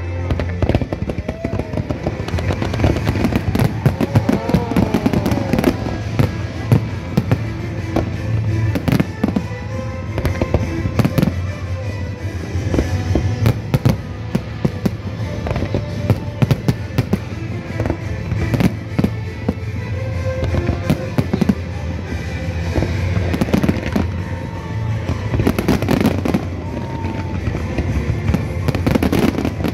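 Fireworks display: a rapid, irregular run of sharp bangs and crackling bursts, with music playing underneath.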